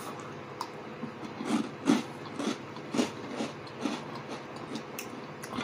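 Close-miked chewing of a mouthful of rye toast: wet mouth smacks and clicks, about two a second.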